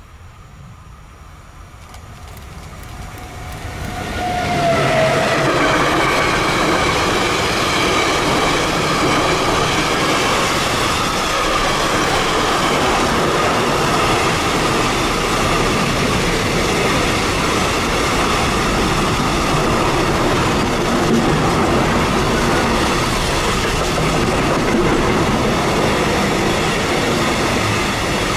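Container freight train passing close by: the sound builds over the first few seconds as the train arrives, then holds as a loud, steady rolling noise of the wagons' wheels on the rails.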